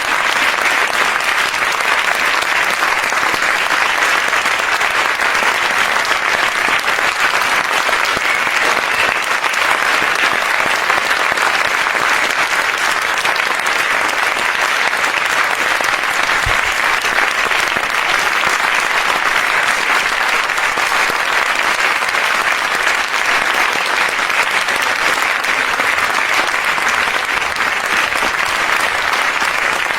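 Sustained applause from a large crowd, many hands clapping densely and evenly without letting up.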